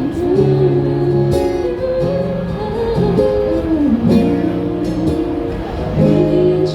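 A band playing live with guitars, a melody line moving over steady held chords.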